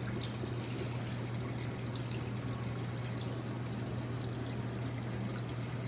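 Wastewater pouring fast and steadily from a Magic Chef portable washing machine's drain hose as the washer drains, over a steady low hum.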